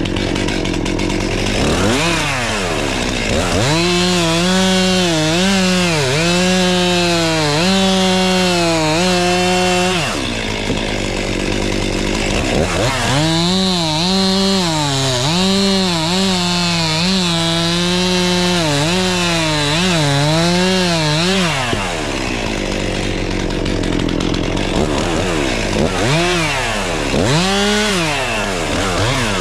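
Chainsaw running at full throttle and cutting wood: two long cuts in which the engine note sags and wavers under load, with the saw dropping back toward idle between them and revving up again near the end.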